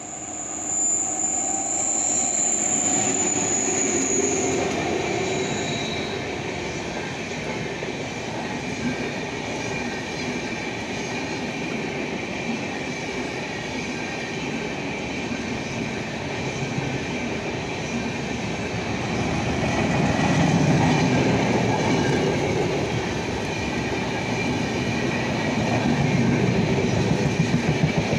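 Electric-hauled passenger train of LHB coaches passing close by. A high squeal sounds during the first few seconds as the locomotive comes up. Then comes the steady rumble and clatter of coach wheels on the rails, growing louder about twenty seconds in and again near the end.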